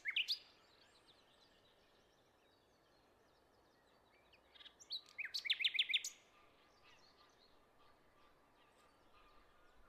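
Wild birds calling and singing: a loud chirp at the start, then about five seconds in a quick run of short, falling whistled notes lasting about a second, with fainter distant chirps in between.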